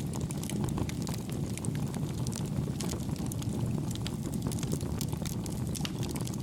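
Campfire burning with a steady low rumble and frequent small, soft crackles and pops of the wood scattered throughout.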